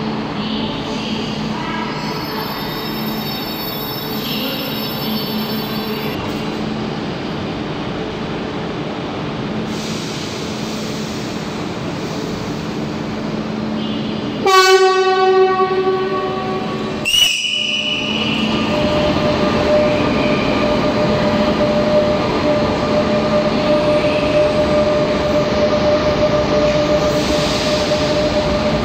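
Trains in an underground station: steady running rumble for the first half, then a Renfe series 447 Rodalies electric commuter train sounds one loud horn blast about halfway through, followed by a short high note about two seconds later. It then runs past with a steady electric traction whine.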